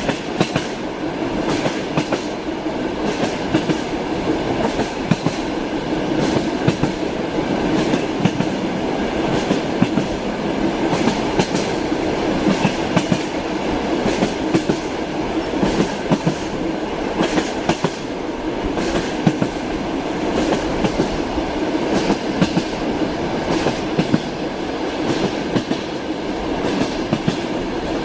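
Moving train with its wheels clattering over rail joints: a steady running rumble broken by frequent sharp clicks.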